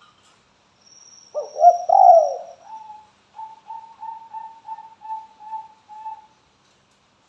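Spotted dove cooing. A loud, tumbling phrase of coos comes about a second and a half in, followed by a run of about eight short, evenly spaced coos, roughly three a second.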